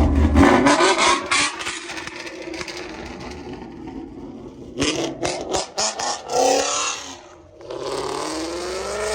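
Car engines revving and accelerating, with engine pitch rising about six seconds in and again near the end; clusters of sharp crackles come in between.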